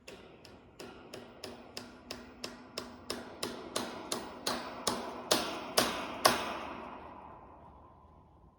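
A run of about eighteen sharp, evenly spaced strikes, roughly three a second, growing steadily louder and slightly slower over about six seconds, then a ringing tone that fades away.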